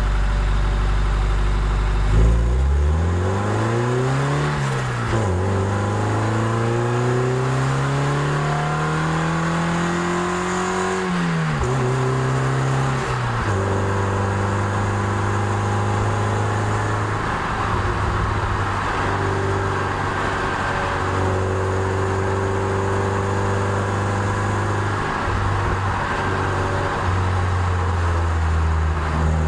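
Toyota MR2 Spyder's 1.8-litre four-cylinder engine, steady at first, then pulling away about two seconds in: the revs climb, fall at a gear change, climb again through a second gear and fall at another shift, then hold steady for the rest.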